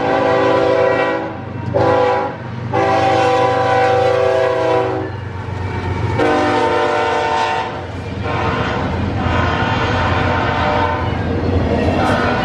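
Diesel freight locomotive's multi-chime air horn blowing in several blasts of differing length, the longest about two seconds, over the steady rumble of the locomotives' engines as the train passes.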